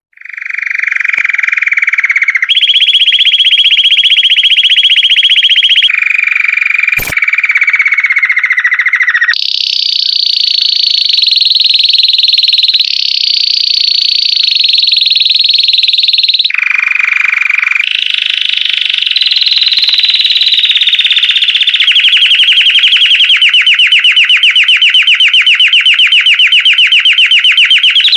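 Belgian canary singing a continuous song of rapid rolling trills. Each trill holds at one pitch for a few seconds, then jumps to a higher or lower one, ending in a long, evenly pulsed fast trill. A single sharp click sounds about seven seconds in.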